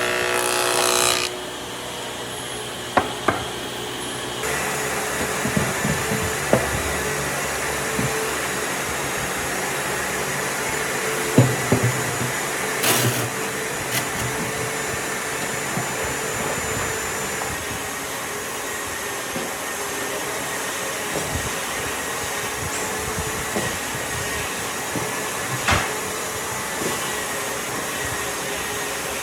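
A workshop machine running steadily, with a few scattered knocks of wood and tools. A pitched motor whine cuts off about a second in.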